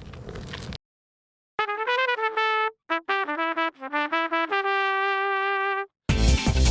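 A short solo trumpet-like brass tune of quick notes that ends on one long held note. Just before the end, loud electronic music with a heavy beat cuts in. A brief rustling noise comes first and is followed by a moment of silence.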